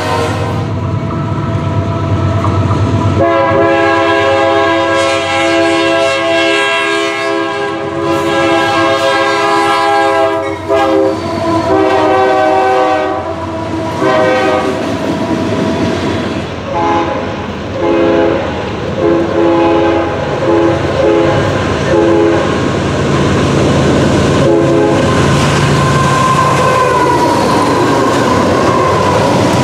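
Ferromex diesel freight locomotives sounding a multi-note air horn: one long blast, then a run of shorter blasts, over the steady rumble and clickety-clack of freight cars rolling past at close range.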